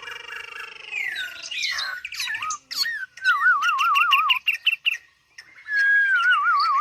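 Chinese hwamei (họa mi) singing: a varied song of loud whistled phrases, with two runs of fast warbling, wavering notes separated by a short pause near the middle.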